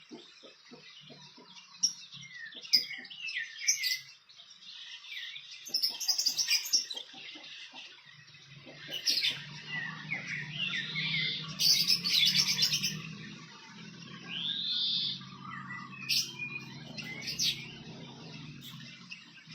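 Small birds chirping and calling in short, sweeping notes, the loudest clusters about two, six, nine and twelve seconds in. A low steady hum joins about eight seconds in.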